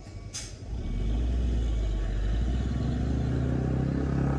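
Heavy diesel truck engine running with a low, steady rumble that builds up about a second in, its pitch rising slightly midway.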